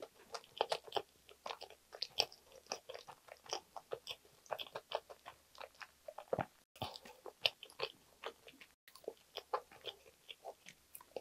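A person chewing a mouthful of soft sandwich with lips closed: a run of irregular small wet clicks and smacks from the mouth.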